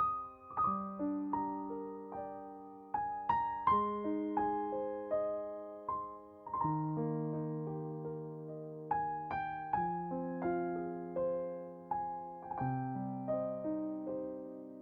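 Soft background music played on piano or electric piano: a gentle melody over chords, each note struck and left to die away.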